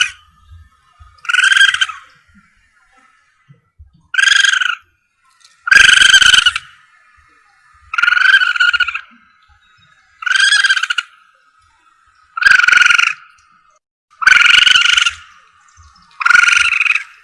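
Civet (musang) lure call played back on repeat: eight short, loud cries about two seconds apart, each half a second to a second long and holding a steady pitch.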